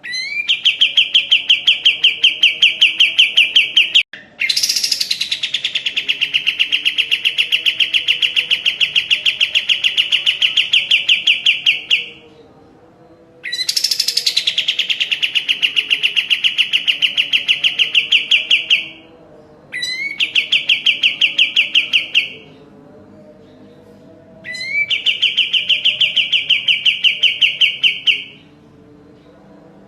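Kapas tembak songbird singing long, rapid trills, five phrases a few seconds each with short pauses between, each opening with a quick upward sweep.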